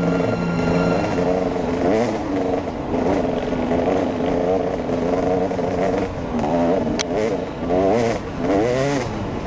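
Off-road motorcycle engine being ridden hard, its pitch rising and falling with the throttle, swinging up and down quickly several times in the last few seconds.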